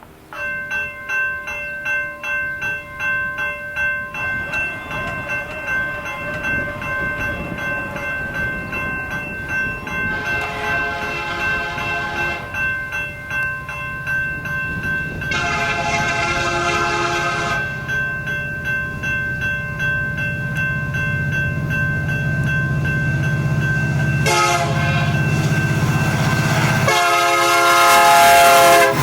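Grade crossing signal bell starts ringing, a rapid steady clang. Then a Union Pacific SD70M locomotive approaches, sounding its horn in the crossing pattern: two long blasts, a short one, and a long one. Its engine and rail rumble build as it nears.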